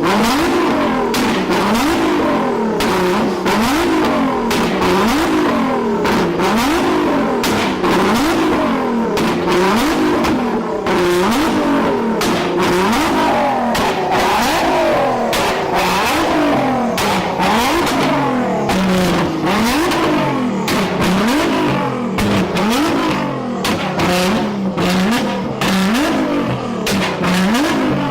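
A performance car's engine being revved over and over, its pitch climbing and dropping back about once every second or so, with sharp exhaust crackles and pops all the way through.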